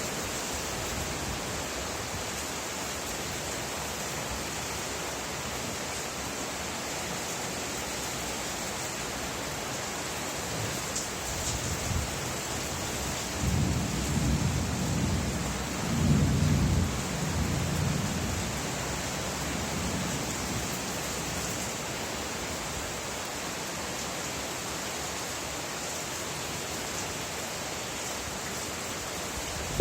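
Steady rain falling, with a low roll of thunder that builds a little before halfway, peaks shortly after and dies away about two-thirds of the way through.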